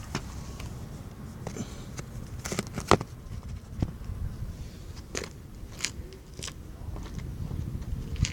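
Scattered clicks and knocks over a low rumble, the loudest about three seconds in: handling and movement noise, with no engine running yet.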